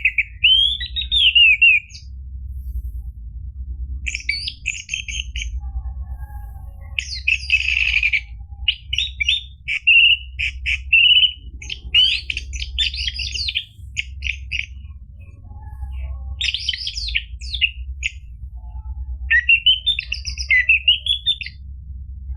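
Orange-headed thrush (anis merah) song: quick phrases of varied whistles and chirps in bursts separated by short pauses, over a steady low hum.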